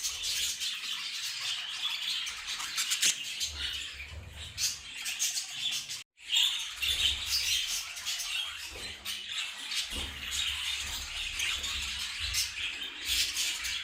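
A flock of show budgerigars chattering and chirping without pause, cut off briefly by a moment of silence about six seconds in.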